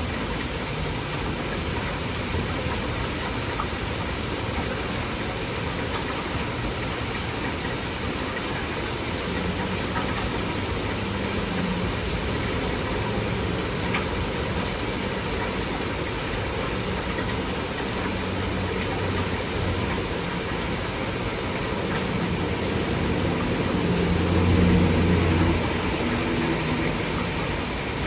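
Heavy rain with a steady hiss, and under it the low hum of an engine, which swells and is loudest about 24 seconds in before easing off a couple of seconds later.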